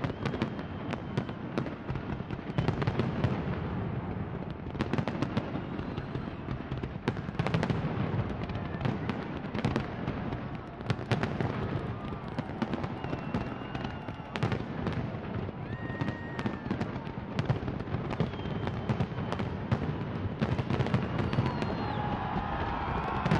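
Fireworks display: a continuous run of bangs and crackles from bursting shells, with short whistling tones here and there. Near the end, several wavering pitched tones rise over the bangs.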